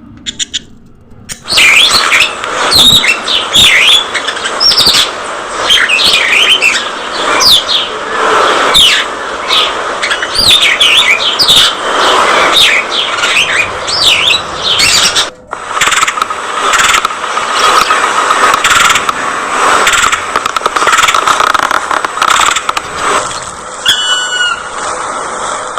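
A flock of budgerigars chattering, with rapid overlapping chirps, squeaks and warbling glides. The chatter starts about a second and a half in and breaks off for a moment past the middle.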